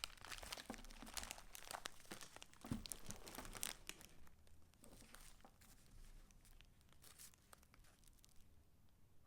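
Paper rustling and crinkling as the pages of a handmade junk journal are handled and turned, busiest in the first few seconds and then fading to faint, scattered rustles.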